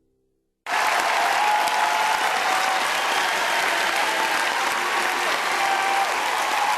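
Audience applauding, starting suddenly less than a second in after a brief silence and then holding steady.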